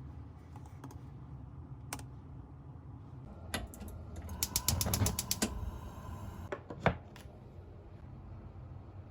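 Typing on a keyboard: a few scattered key clicks and a quick run of keystrokes about halfway through, over a low steady room hum.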